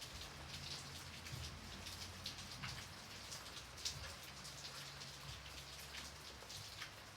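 Gentle rain falling steadily, with many separate drops ticking on a surface and one louder drop about four seconds in. A faint low hum runs underneath.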